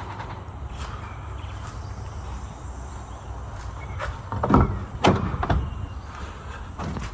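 Scania truck's diesel engine giving a steady low rumble, with a few sharp knocks and clunks past the middle, the loudest of them about two-thirds of the way through.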